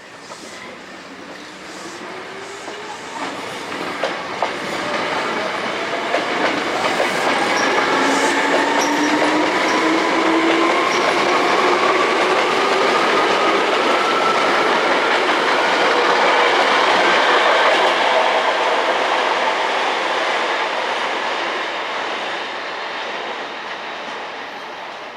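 Hankyu Kyoto Line resistor-controlled electric train accelerating: its traction motor and gear whine climbs steadily in pitch over about twenty seconds, over the rumble and clacking of wheels on the rails. The sound cuts off suddenly at the end.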